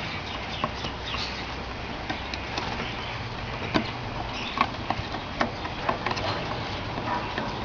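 A pair of courting cockatiels: scattered sharp taps and clicks with a few soft chirps, over a steady low hum.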